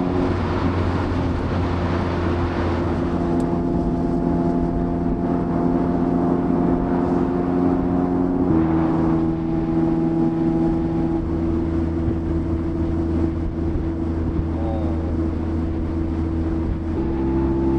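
Mazda MX-5's 1.5-litre four-cylinder engine running at a steady cruise, heard with road and wind noise; its note changes in small steps a few times.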